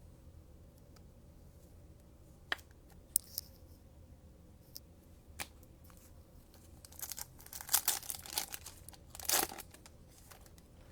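A cellophane trading-card pack wrapper being torn open and crinkled, after a few light clicks and taps; the crinkling is densest about seven to nine and a half seconds in.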